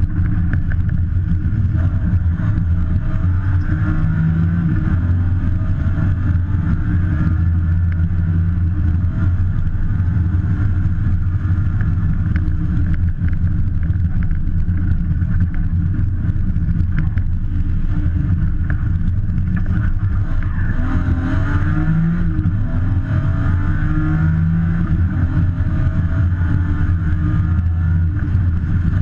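BMW M3 rally car engine running hard under load, heard from inside the cabin. Its pitch sweeps up and down a few times in the last third as the revs change.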